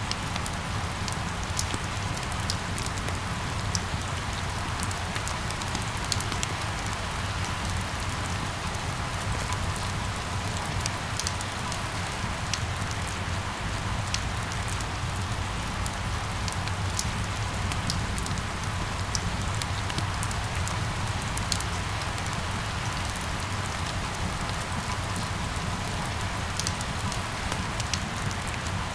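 Steady rain falling, with individual drops ticking sharply against a hard surface close by over a constant low rumble.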